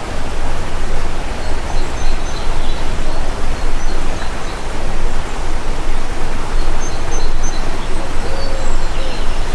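Steady rushing of stream water, with faint, short, high bird chirps over it now and then.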